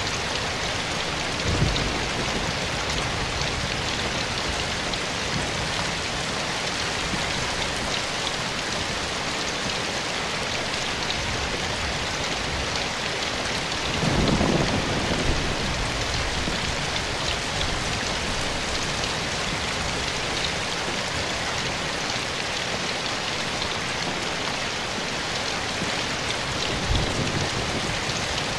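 Steady soft rain falling in a forest, an even hiss of drops. Three low, deep thuds cut through it: a brief one near the start, a longer rumble of about a second and a half halfway through, and another brief one near the end.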